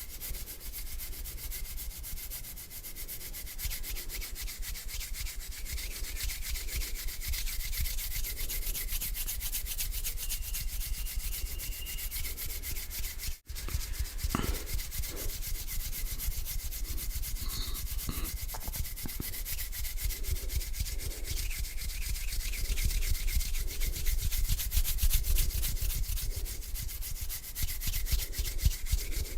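Hands rubbing slowly together close to the microphone, a continuous dry rasping swish, broken by a momentary silence about halfway through.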